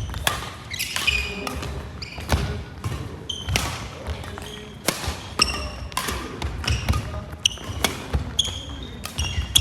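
Badminton rally: sharp racket strikes on the shuttlecock, many in quick succession, with sneakers squeaking on the court floor.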